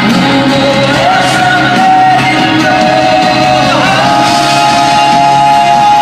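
Live Christian rock band playing at full volume, with a lead vocal holding long notes that step up in pitch about a second in and again about four seconds in.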